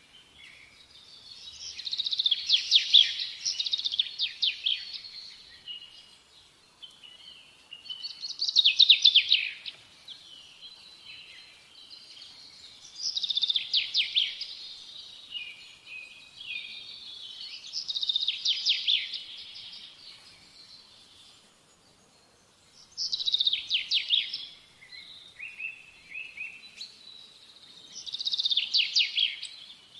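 Songbird singing: a loud trilled phrase about every five seconds, with softer chirps in between.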